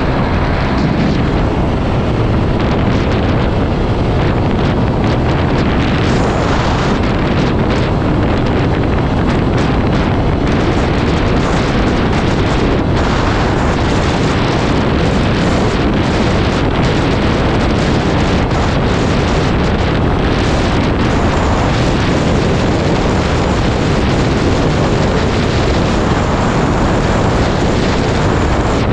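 Loud, steady wind rushing over the microphone of a motorcycle rider at highway speed, covering the bike's engine and tyre noise.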